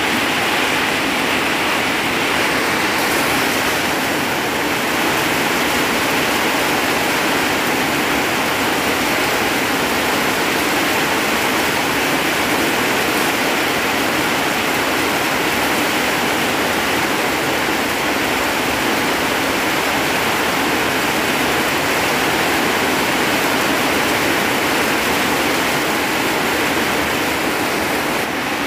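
Heavy rain pouring down steadily, an even, dense hiss with no let-up.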